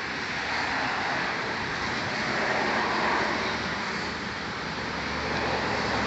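Steady motor vehicle engine and road noise, with a low engine note coming in about two seconds in.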